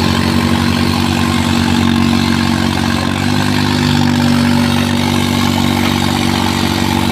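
Diesel tractor engine running steadily, its note shifting slightly about three seconds in.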